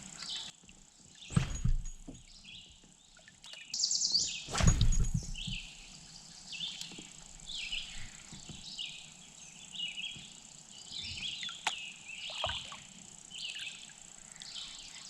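Songbirds singing short chirpy phrases over and over, with a steady high insect buzz underneath. Two loud sudden thumps break in, about a second and a half in and again near four and a half seconds.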